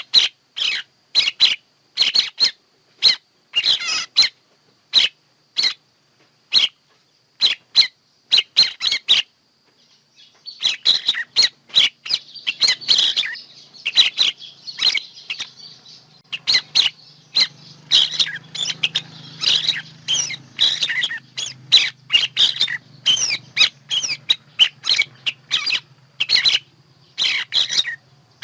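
Recorded songbird calls used as a trapping lure: short high chirps repeated about once or twice a second, then from about ten seconds in a denser, overlapping chatter of calls over a faint low hum.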